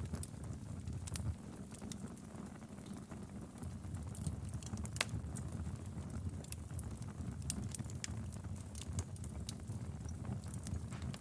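Wood fire burning in a fireplace: a soft steady low rumble of flames with irregular sharp crackles and pops, one louder pop about five seconds in.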